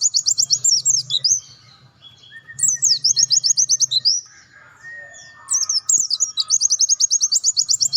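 White-eye (pleci dakun) singing loud phrases of fast, high trilled notes, about ten a second, in three bursts with short pauses between.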